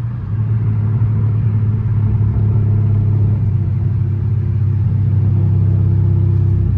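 Straight-piped 392 HEMI V8 of a Dodge Charger Scat Pack droning steadily, getting louder just after the start.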